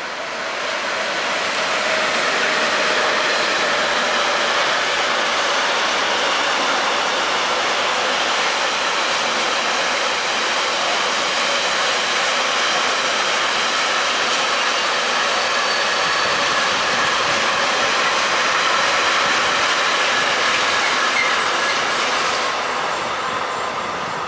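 Freight train rolling through a station, wagons rumbling with clickety-clack and a thin squeal from the wheels. The sound swells over the first couple of seconds, holds steady, and fades near the end.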